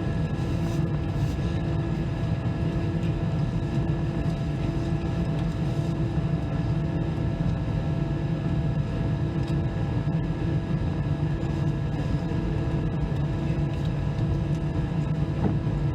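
Airbus A319 jet engines and airflow heard inside the passenger cabin: a steady, unchanging hum with several steady tones in it.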